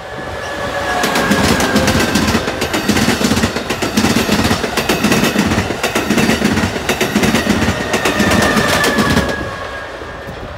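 Amtrak Acela Express high-speed trainset passing at speed: loud, rapid wheel clatter over the track, with a faint high whine that slowly falls in pitch. The sound builds over the first second and fades from about nine seconds in as the train recedes.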